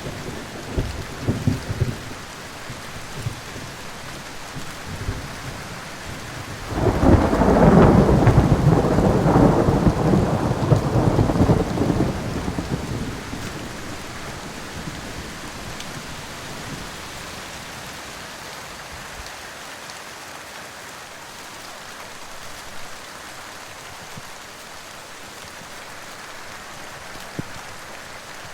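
Steady rain with a long roll of thunder about seven seconds in, loud for some five seconds before it dies away into the rain.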